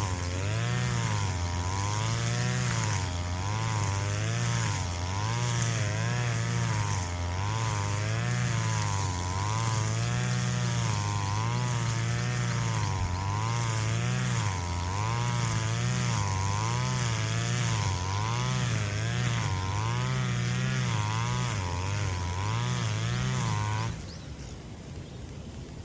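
Petrol brush cutter running at full throttle while cutting grass, its pitch dipping and recovering about once a second as the blade swings through the growth. It stops abruptly near the end.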